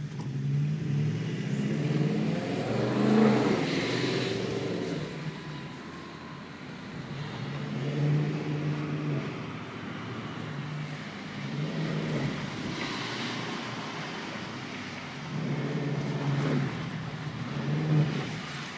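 BMW X5 4.6is V8 through stainless steel exhaust silencers, revved about four times, the exhaust note rising and falling back to a steady run between revs.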